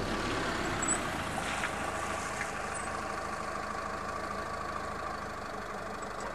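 Citroën C5 2.2 HDi diesel engine running steadily as the car drives slowly across in front and pulls up, easing slightly toward the end.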